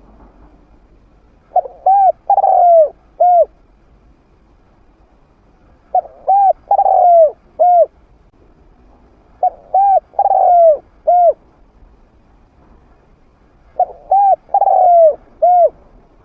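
A trained spotted dove cooing in a medium-pitched voice. It gives four matching phrases about four seconds apart, each a few short coos with a longer, falling coo in the middle.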